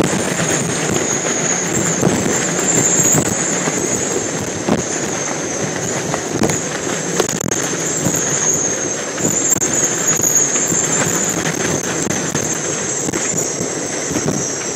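Hurricane-force wind blowing hard and unbroken, buffeting the microphone with dense crackling, over a steady high whistle.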